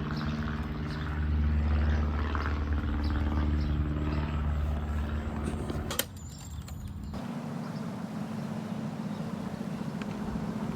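A motor vehicle engine running steadily with a low hum. About six seconds in there is a sharp click, and the sound changes abruptly to a quieter, steadier hum.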